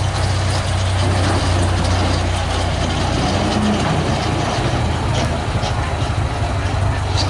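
Steady low mechanical hum under an even wash of background noise.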